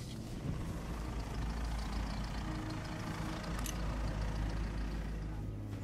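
A vehicle engine idling steadily, with a short click about three and a half seconds in.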